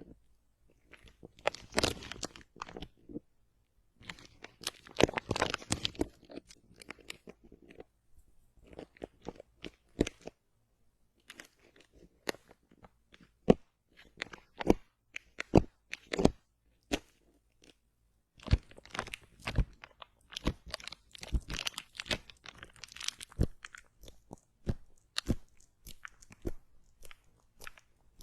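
Close-miked crunching and crackling: clusters of quick crackles and single sharp snaps, broken by short pauses.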